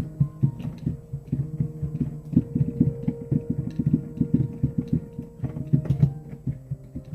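Solo instrumental music: one instrument playing a steady stream of quick notes, mostly in the low-to-middle register.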